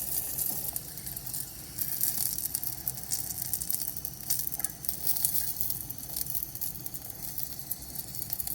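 Cicadas sizzling as they fry in butter with Old Bay seasoning in a pan, a steady crackle of small pops, with a low hum underneath.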